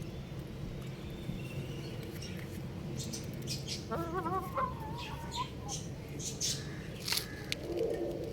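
Young rooster giving a short wavering call about four seconds in, among scattered sharp clicks and taps, over a steady low background hum.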